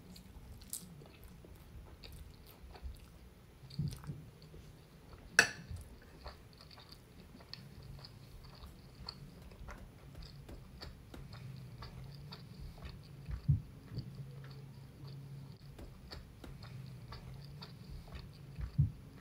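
A person chewing a mouthful of soft homemade turkey lasagna, with wet mouth clicks and smacks throughout. One sharp click about five seconds in is the loudest sound, and a low hum runs underneath from about a third of the way in.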